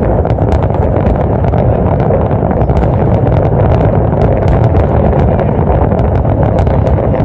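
Dense fireworks barrage: a steady rumble of overlapping bursts with many short, sharp crackles and pops.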